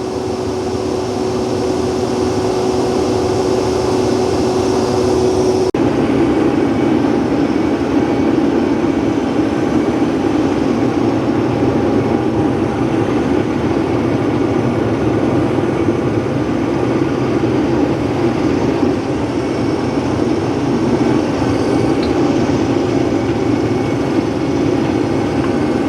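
Case IH 2388 combine running steadily. A held tone stops about six seconds in, where the sound changes abruptly to a rougher, fuller rumble.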